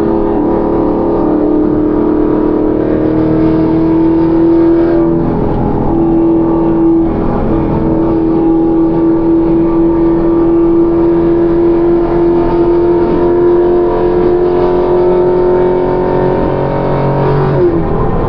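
Camaro ZL1's supercharged V8 and road noise while driving, a steady engine drone that holds pitch and briefly drops near the end.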